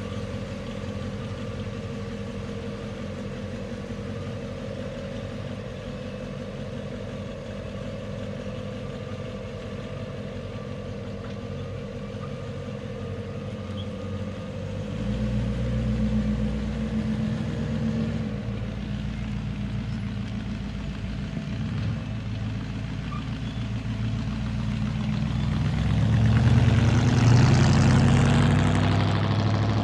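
1948 Chevrolet Fleetmaster coupe's engine idling steadily, then pulling away and growing louder about halfway through. It is loudest near the end as the car drives past, then drops off.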